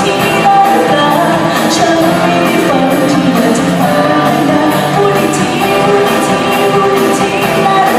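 A band playing pop music with a singer, with a steady beat.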